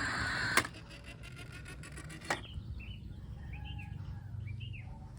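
A sharp click, faint rapid ticking for under two seconds, a second click, then a small bird chirping with short, arched calls repeated several times.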